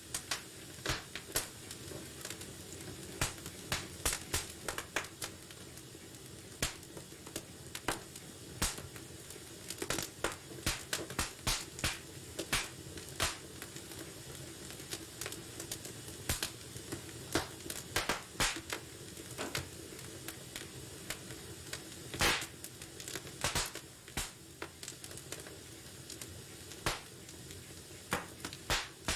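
Wood fire crackling in a fireplace: frequent sharp, irregular pops and snaps over a steady low hiss of burning.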